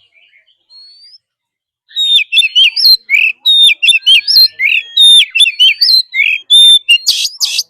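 Oriental magpie-robin singing: after a couple of seconds of faint notes, a loud, rapid, varied song of clear whistles, sliding notes and harsh rasping notes.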